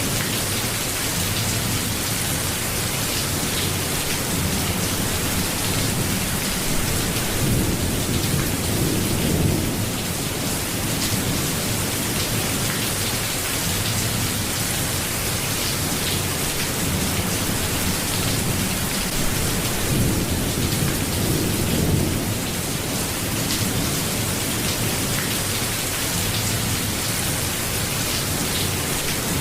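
Steady rain hiss with low rolling rumbles of thunder, swelling about eight seconds in and again about twenty seconds in.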